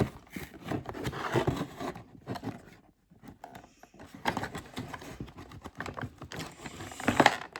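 Toy packaging being handled and pried open: irregular scraping, rustling and clicks, with a short quiet pause in the middle and a louder cluster of clicks near the end.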